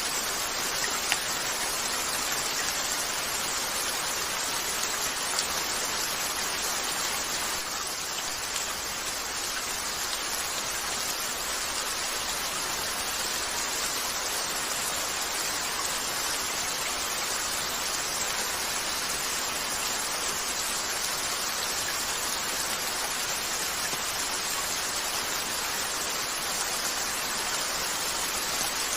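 Steady rain falling on a window, an even hiss, mixed with a crackling log fire that gives a few sharp pops, one about a second in and another about five seconds in.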